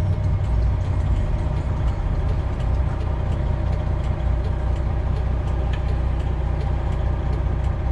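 Freightliner Classic XL semi truck's diesel engine running steadily at low speed, a constant low drone heard from inside the cab.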